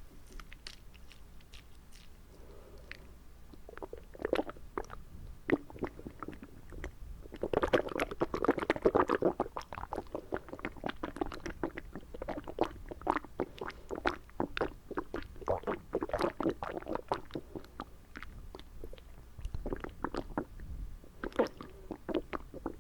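Close-up wet mouth sounds: a quick, irregular run of tongue clicks and moist smacks, busiest and loudest for a couple of seconds near the middle.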